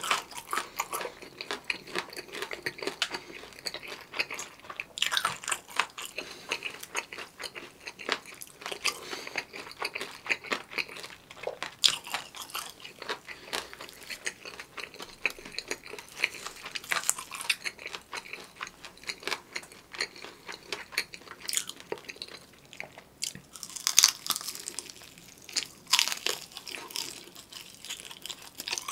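Close-miked chewing and crunching of crispy fried food, full of short sharp crackles. The loudest crunches come in the last five seconds or so, as he bites into a crispy seasoned fried chicken leg.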